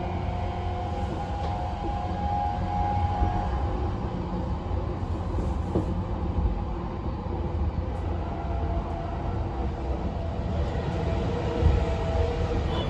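Interior running noise of a JR East E233-series electric commuter train at speed: a steady low rumble of wheels on the rails. Near the end the sound grows louder, with a rushing hiss, as the train enters a tunnel.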